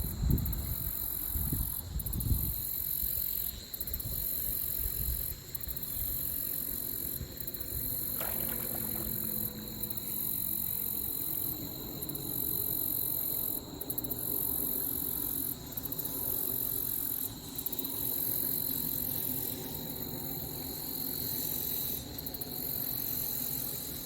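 Creek water rushing steadily, a constant hiss with a thin high whine running through it. Low buffeting in the first couple of seconds.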